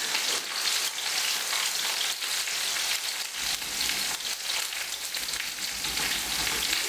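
Butter chicken sauce sizzling and frying in a pan while being stirred, a steady crackling hiss, as the spices cook out.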